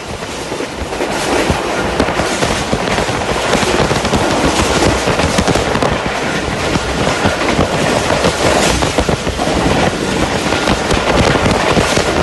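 Express train passing close at speed, its wheels clattering rapidly and without pause over the rail joints, with the hiss of heavy rain underneath.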